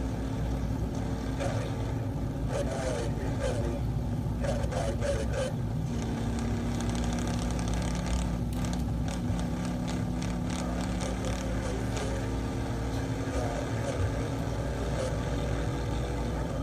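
Steady motor-vehicle running and road noise, an even low rumble with a constant hum throughout, from police chase footage.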